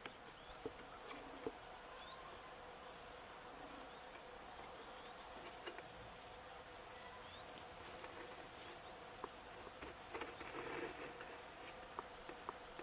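Faint, steady buzzing of insects, with scattered light clicks and a few short, high chirps.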